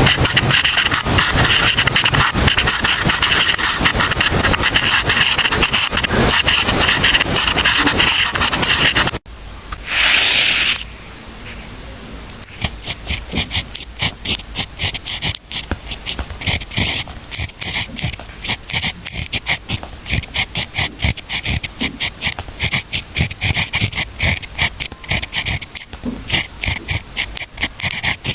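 Pen or pencil writing on paper: dense, continuous scratching for about nine seconds, which cuts off abruptly. A brief rush of noise follows, then quicker, separate short strokes, several a second.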